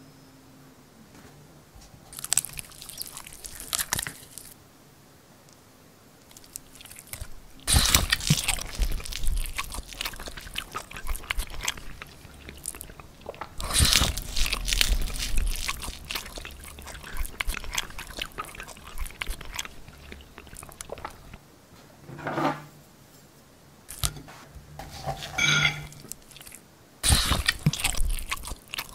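Close-up crunching and chewing eating sounds, coming in several bursts with short pauses between.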